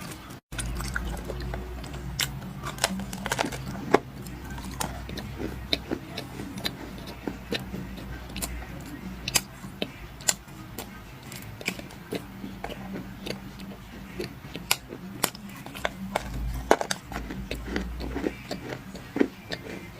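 Dry black clay being bitten and chewed: many sharp, irregular crunches and cracks.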